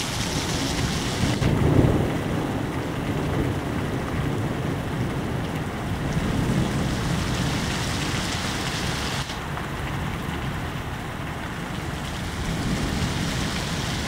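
Steady heavy rain in a thunderstorm, with a low rumble of thunder swelling about two seconds in and a fainter one around six seconds.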